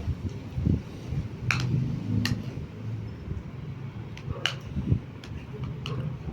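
Close-up eating sounds of a person chewing noodles and rice, with a few sharp mouth-smacking clicks.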